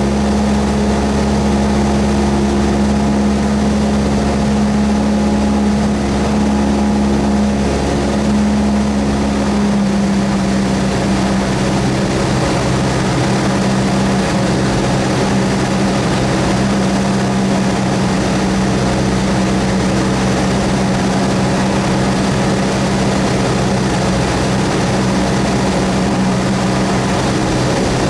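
Cessna 172S's four-cylinder Lycoming engine and propeller droning steadily, the engine note dropping slightly about ten seconds in.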